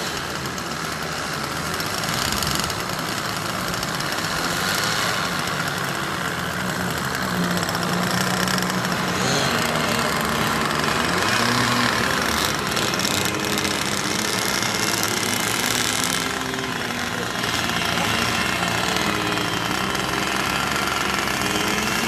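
Small model-airplane engine running, its pitch wandering up and down as the throttle changes.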